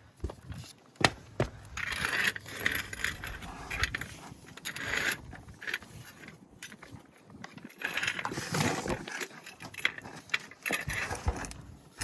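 A metal car jack being handled and set under a car: scattered metallic clicks, clanks and rattles with some scraping, the sharpest clank about a second in.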